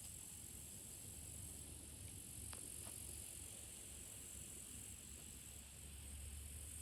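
Quiet outdoor ambience: a steady high-pitched hiss over a low hum, with a faint click about two and a half seconds in.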